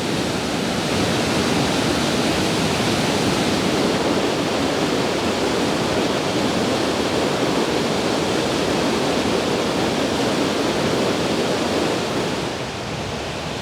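Steady rushing roar of Plodda Falls, a tall waterfall plunging into a gorge. It eases slightly near the end.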